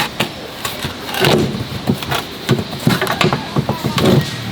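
Irregular knocks and clatter, a string of short uneven hits with no steady rhythm.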